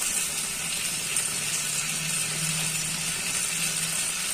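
Chopped onions and tomatoes with whole spices sizzling steadily in ghee in a steel pan, a soft even hiss with a low hum underneath.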